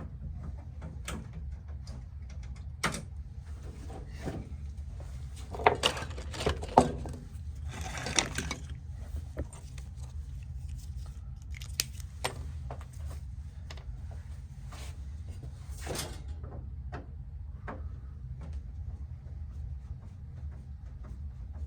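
Scattered clicks, knocks and short scrapes of tools and parts being handled, busiest from about six to nine seconds in, over a steady low hum.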